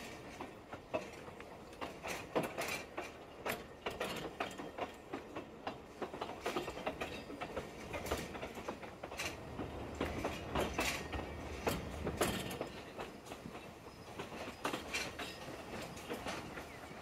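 Narrow-gauge train on the move: wheels clicking over rail joints and the carriage rattling, with many irregular clicks and knocks over a steady rumble.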